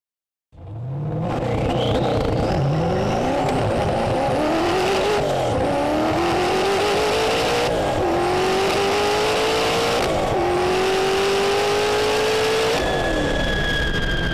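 Hennessey Venom GT's twin-turbo V8 accelerating flat out through the gears: the engine note climbs in each gear and drops back at every upshift, with the gears lasting longer and longer. Near the end the throttle lifts, the engine note falls away and a high whine slowly falls in pitch.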